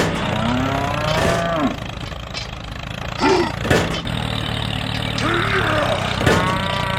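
Cattle mooing: two long calls, one near the start and one after about five seconds, with shorter calls between, over a steady low engine hum.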